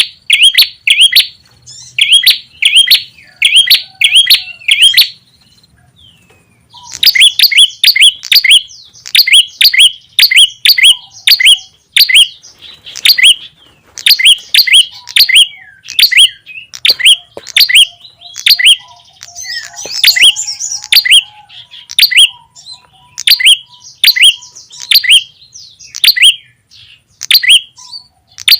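Prenjak tamu (prenjak kepala merah) call played as a bird lure: loud, sharp chirps repeated in quick clusters of a few notes each. There is a short break about five seconds in, then the series carries on.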